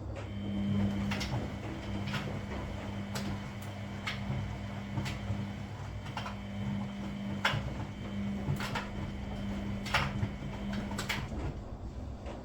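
Front-loading washing machine in its wash cycle: the drum motor hums steadily and stops about eleven seconds in, while knocks come roughly once a second as the tumbling laundry hits the drum.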